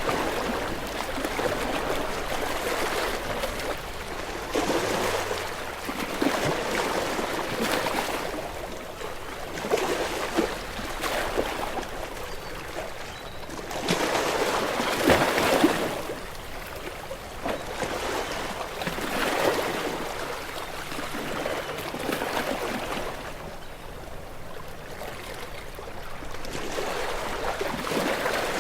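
Sea waves breaking and washing against shore rocks in repeated swells, each surge rising and falling back, with the loudest surge about halfway through.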